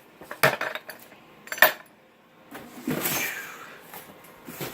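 Hard plastic shop-vac parts knocking together twice as they are unpacked, then packaging rustling.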